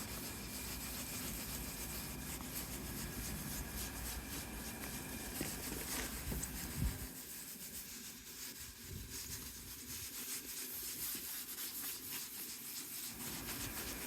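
Half a lemon coated in baking soda scrubbed back and forth over a plastic headlight lens: a faint, steady rubbing.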